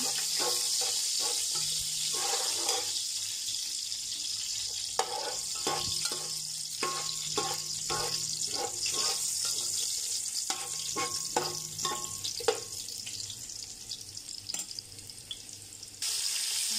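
Sliced garlic sizzling in hot oil in a metal pot, with a metal slotted spatula scraping and clinking against the pot in runs of quick strokes. The strokes stop a few seconds before the end, leaving the steady sizzle.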